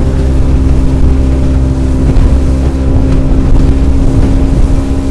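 Motorboat engine running steadily: a constant drone with a low rumble and a steady hum that holds one pitch.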